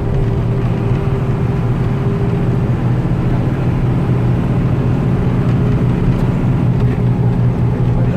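Bus engine running steadily at highway speed, a continuous low drone over road noise.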